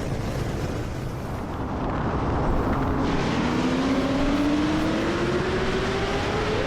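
Street-racing cars at full throttle: a steady rush of engine and road noise, with one engine's pitch climbing slowly and steadily from about two and a half seconds in as it pulls hard.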